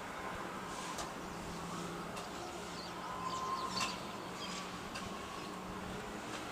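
Birds chirping in short, scattered calls, a few at a time, over a steady low background hum.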